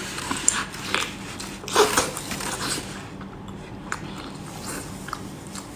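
Close-up mouth sounds of biting and chewing a whole cooked octopus in chilli sauce: wet clicks and short smacking bursts, loudest about two seconds in.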